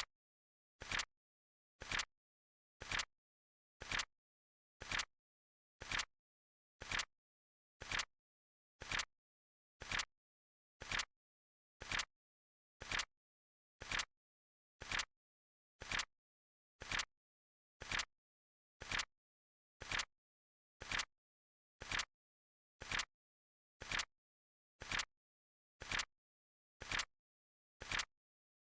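Countdown timer's clock-tick sound effect: one short, sharp click every second, evenly spaced, with silence between.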